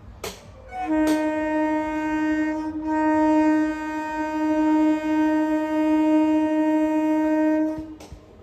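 Train horn sounding one long blast of about seven seconds at a steady pitch, starting about a second in, the warning of a train approaching at speed.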